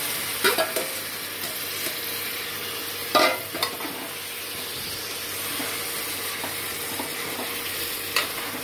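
Marinated chicken sizzling as it is sautéed in hot oil in an aluminium pressure cooker, with the scrape and stir of a utensil through it. A few short knocks of metal on the pot, the loudest about three seconds in.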